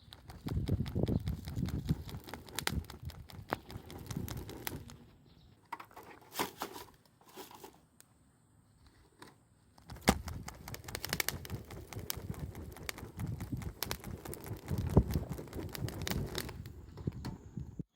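Campfire crackling close up: dense, irregular snaps and crinkles, easing off for a few seconds in the middle with only scattered snaps, then crackling thickly again.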